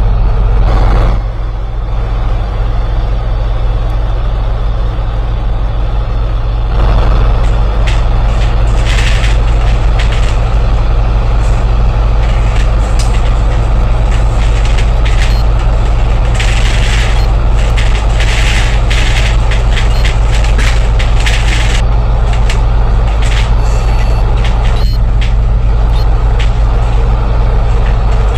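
Bus engine and drivetrain heard from inside the cabin, a steady loud drone that swells about seven seconds in as the bus pulls harder. Several short hissing bursts of released air come through the middle of the run.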